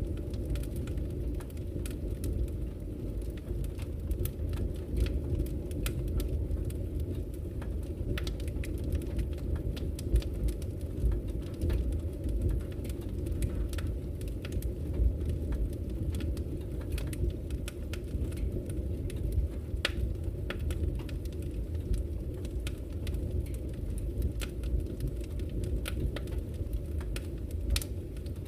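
Wood fire burning in a fireplace: a steady low rumble of the flames with many irregular small crackles and pops from the burning wood.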